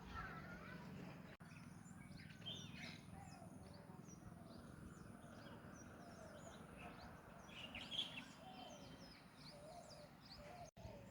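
Faint chorus of small birds chirping and twittering, many short quick calls overlapping, over a low steady rumble.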